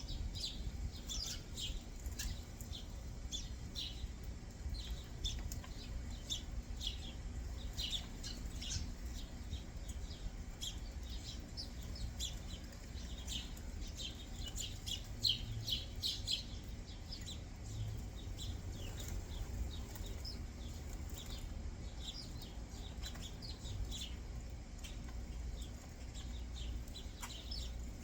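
Small backyard songbirds chirping: many short, high chirps in an irregular, overlapping stream, over a steady low background rumble.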